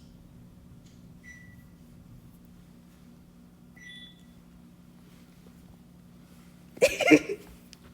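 Steady low electrical hum with two short high-pitched beeps about two and a half seconds apart, then a sudden brief loud cry near the end.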